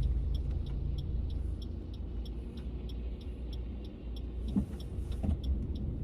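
Car cabin sound while driving: a steady low engine and road rumble, with a faint rapid ticking of about four ticks a second.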